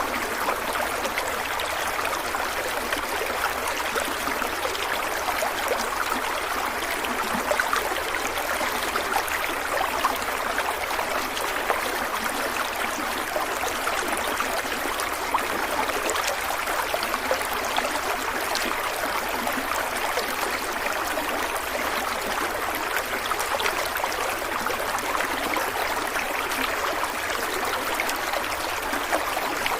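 Stream water running over rocks, a steady rushing with fine trickling and bubbling.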